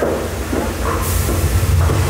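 Theme park ride rumbling low and steady, with a burst of hissing about a second in.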